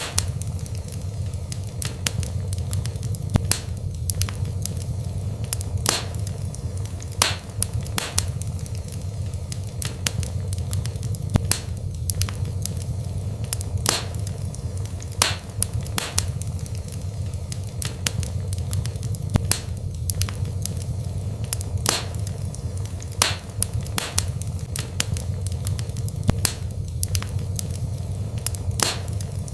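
Wood fire burning in a fireplace, crackling with sharp, irregular pops every second or so over a steady low rumble.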